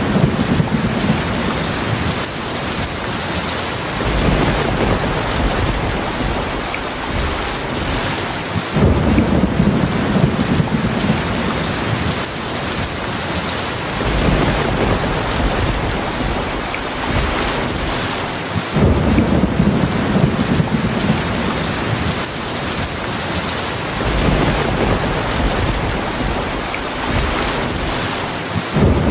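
Heavy rain falling in a steady hiss, with low rolls of thunder rumbling in about every five seconds.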